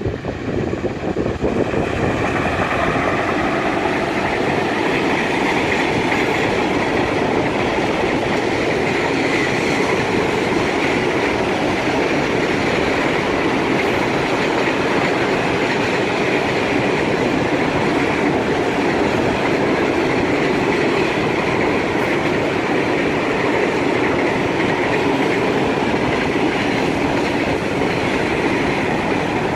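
Freight train rolling past, its wagons' wheels on the rails making a loud, steady rolling noise that builds in the first second or two and then holds.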